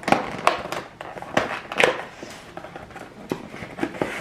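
Irregular rustling, crinkling and light knocks of takeout food packaging being handled and unpacked from a bag.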